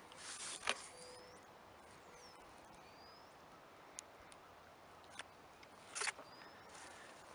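Quiet outdoor ambience with a few short, high bird chirps scattered through it, and two brief rustles, about a second in and again near six seconds, from someone moving on the grass.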